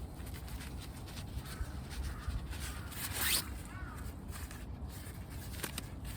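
Scattered clicks and rustles of handling over a steady low rumble of wind on the microphone, with one short rising zip-like sweep about three seconds in.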